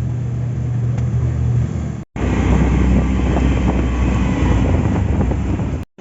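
Train sounds: a steady low engine hum, then after an abrupt cut about two seconds in, a louder low rumble.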